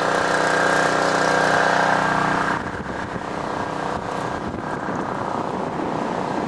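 Small engine of a portable emergency generator running at a steady pitch; its hum drops away sharply about two and a half seconds in, leaving a rushing noise.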